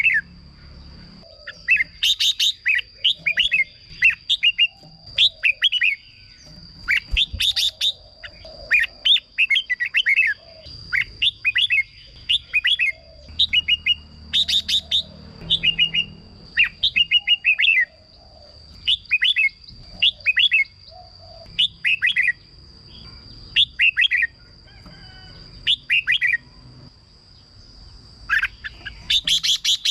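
Red-whiskered bulbuls singing short, quick warbled phrases one after another with brief gaps between them. A steady high-pitched whine runs underneath the song.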